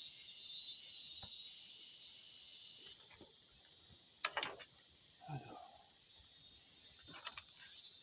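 Steady high-pitched insect chorus of the forest, dropping in level abruptly about three seconds in, with a few sharp clicks and a short lower sound in the second half.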